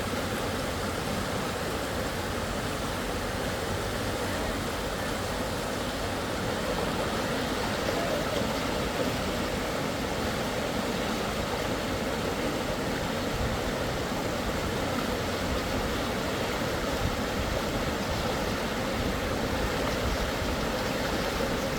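Rushing river water running steadily over rapids.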